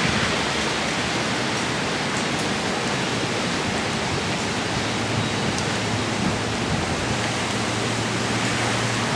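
Tropical-storm-force wind from Hurricane Sandy blowing hard: a steady, even rushing noise with no let-up.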